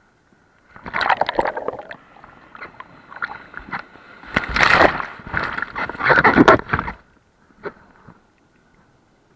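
Sea water splashing and sloshing in several rough bursts, about a second in and again between four and seven seconds in, over a faint steady tone.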